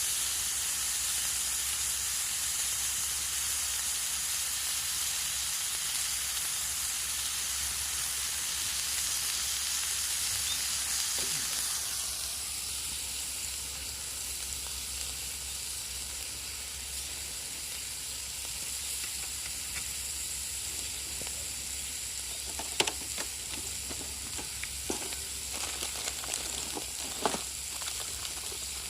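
Steak sizzling steadily in a stainless-steel frying pan over a wood fire, the sizzle easing a little about twelve seconds in. A few sharp clicks and taps come near the end.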